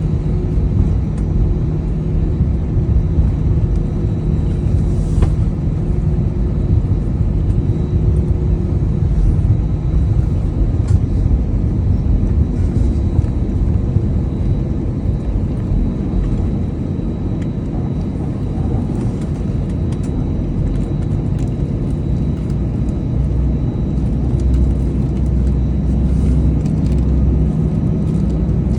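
Cabin noise inside an Airbus A320-200: a steady, loud rumble of engines and airflow, with a low hum that fades out about ten seconds in.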